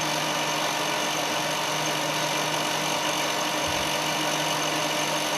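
Ruwac SPS250 industrial vacuum running steadily: an even motor hum with a whine over rushing suction air.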